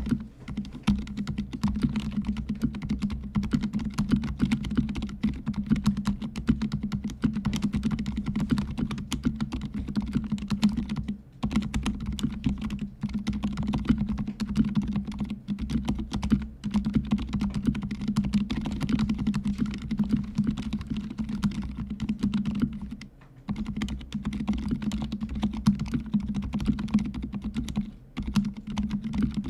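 Fast, continuous typing on a fully lubricated mechanical keyboard with silent red linear switches: a dense stream of muted keystrokes. It breaks off for a moment about a third of the way in and again twice near the end.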